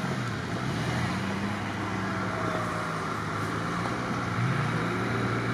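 Off-road vehicle engine running at low revs as the vehicle creeps along a snowy track; its pitch wavers slightly and the level stays steady.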